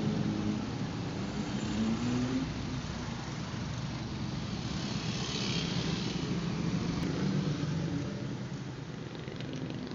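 A motor vehicle's engine running at a fairly steady pitch, with a brief hiss about five seconds in.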